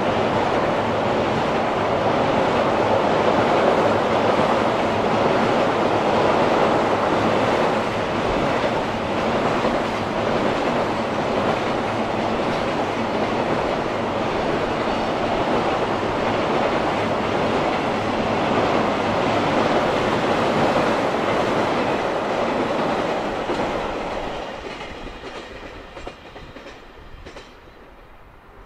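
Freight train's container wagons rolling over a railway girder bridge: a loud, steady noise of wheels on the rails that fades away over the last few seconds as the train moves off.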